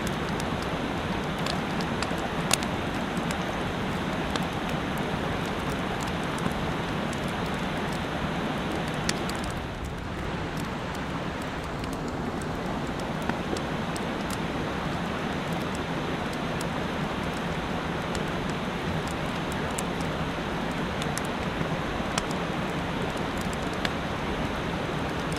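Mountain stream rushing steadily, with a short sharp tick now and then.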